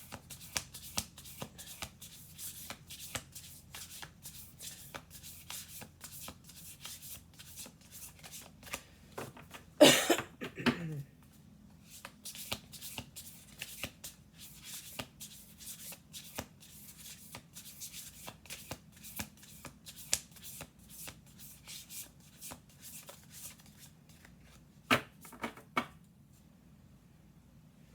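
A deck of Urban Crow Oracle cards being shuffled by hand: a rapid, continuous patter of card edges slapping together, with a louder burst about ten seconds in and two more shortly before the end, where the shuffling stops.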